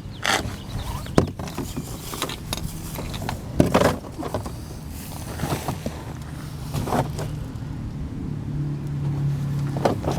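Scattered knocks and clicks of hands and tools working at a car's radiator, over a steady low hum that grows louder near the end.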